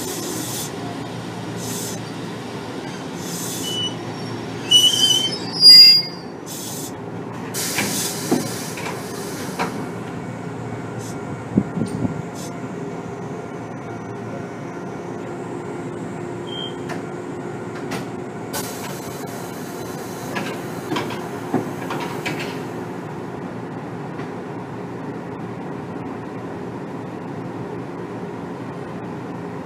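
Interior running sound of a Kotoden 1300 series electric car (ex-Keikyu 1000). About five seconds in, the wheel flanges squeal sharply, the loudest part, as on a curve. The car then runs on steadily with a few clacks over rail joints under a steady running hum.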